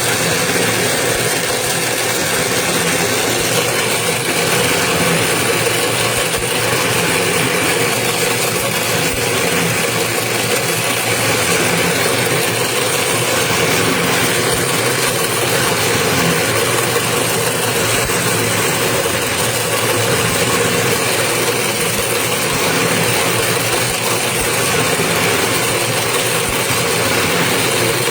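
Toroidal transformer winding machine running steadily, its motor giving an even mechanical hum with a faint high whine.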